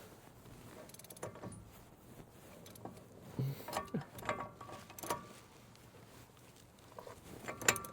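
Metal tools and steel parts clinking and clanking while a truck's front hub is put back together. There are a handful of separate knocks with brief metallic ringing, the loudest near the end.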